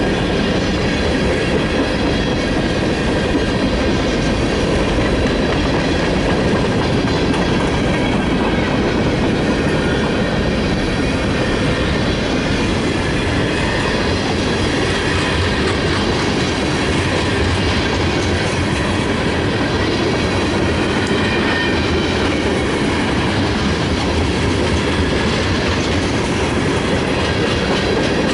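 Freight cars of a mixed freight train rolling by: a steady rumble and clatter of steel wheels on rail, with thin high wheel squeal tones over it.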